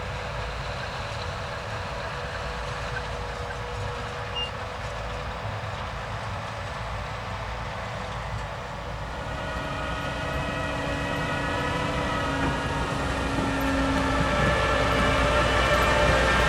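Holmer Terra Dos T4-40 sugar beet harvester at work: a steady heavy engine and machinery drone that grows louder from about halfway through as the machine comes closer. A set of whining tones from its drivetrain and conveyors rises out of the drone at the same point.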